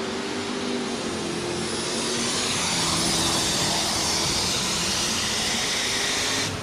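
Alcohol-fuelled super stock pulling tractor engine at full power under load, with a high whine over the engine sound. It cuts off abruptly about six and a half seconds in as the run ends.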